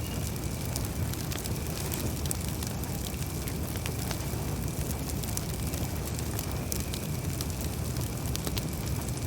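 Campfire burning: a steady low rush of flames with frequent small, irregular crackles and pops from the burning wood.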